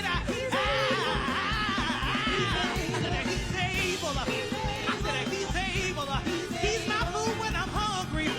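Gospel choir singing with full band accompaniment, sustained high voices wavering over a steady drum beat.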